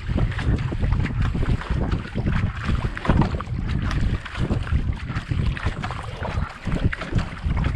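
Wind buffeting the action-camera microphone on a kayak, with irregular splashes of water from the paddle.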